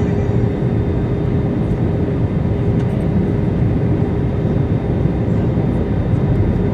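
Steady cabin noise inside an Airbus A321neo in flight: a low rumble of airflow and the Pratt & Whitney engines, with a steady hum running through it.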